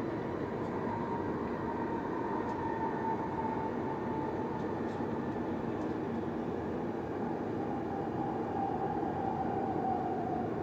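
Cabin noise inside an E7 series Shinkansen running at speed: a steady rumble with a whine that slowly falls in pitch as the train slows for its next stop.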